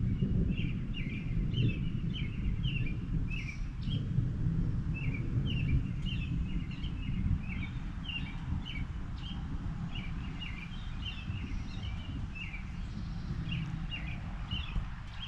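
Birds chirping in quick, repeated short notes over a steady low rumble of background noise.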